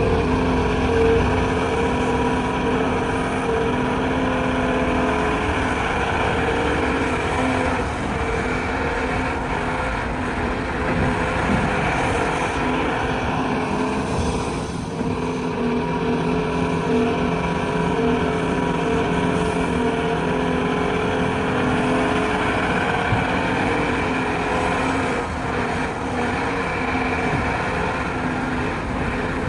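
CAT 390F large hydraulic excavator's diesel engine running steadily under digging and loading work, its pitch shifting slightly as the load changes.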